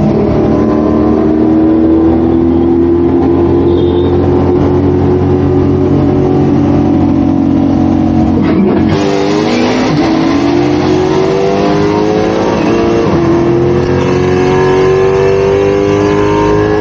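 Mercedes-AMG C63's V8 at full throttle, heard from inside the cabin. The engine note climbs steadily for about eight and a half seconds, drops with an upshift, then climbs again through the next gear.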